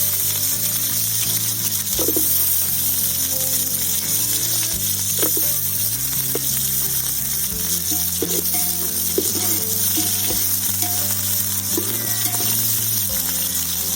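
Chopped small onions sizzling in hot oil and ghee with mustard and fenugreek, being stirred in the pan, with the spoon scraping now and then. Quiet background music runs underneath.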